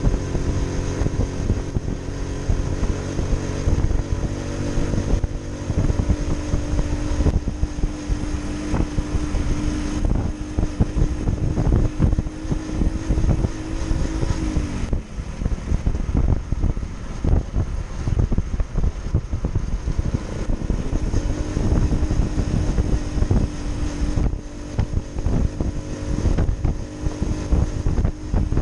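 Motorcycle engine running while riding, with wind rumbling on the microphone. The engine note holds steady, drops away about halfway through as the throttle eases, and comes back up a few seconds later.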